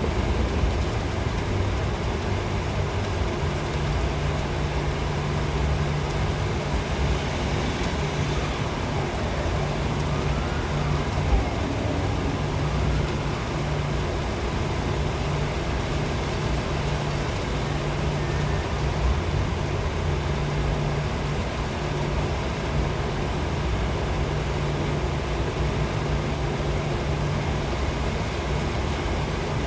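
Steady rain with wind gusting against the phone's microphone, a constant low rumble under the hiss of the rain, and one brief knock about eleven seconds in.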